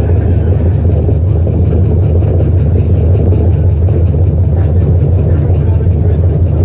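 Steady low rumble and hum inside a DC Streetcar car: the running noise of the streetcar under way.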